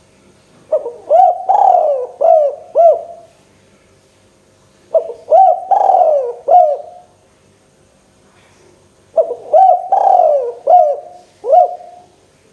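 Spotted dove (tekukur) cooing: three calls a few seconds apart, each a quick run of four or five coos.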